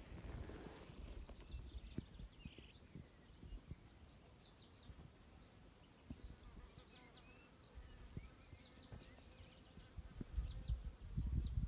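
Faint outdoor ambience: small birds give short, high chirps now and then, and a low rumble rises near the end.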